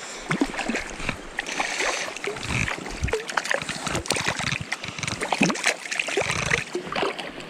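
Creek water splashing and running: an irregular jumble of splashes and small knocks over the flow of the stream.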